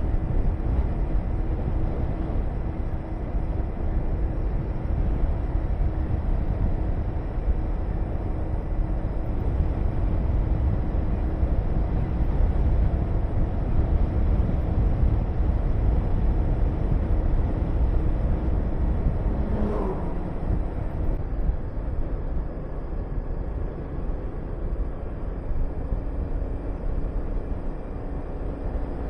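Honda VTR250 V-twin engine running at a steady cruise under heavy wind noise on the helmet-mounted microphone. About twenty seconds in there is a brief rising tone and the engine note settles slightly lower.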